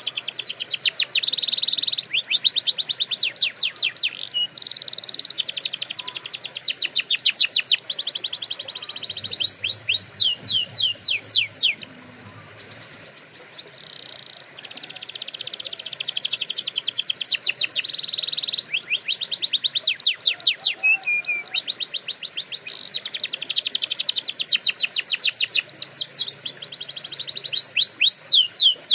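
Domestic canary singing: long rolls and trills of very fast repeated notes, with a short lull about halfway through.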